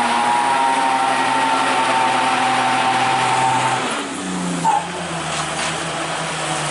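Old truck engine pulling hard uphill at a steady note. About four seconds in the note drops away and comes back higher, then sags slowly under load, with a brief high chirp just after the change.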